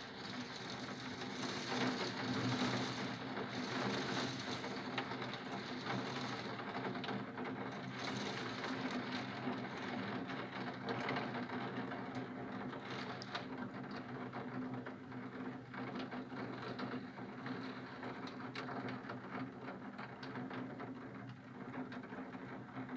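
Downpour pattering against the window glass and sill: a dense run of small taps over a steady hiss, heavier in the first few seconds. A steady low hum runs underneath.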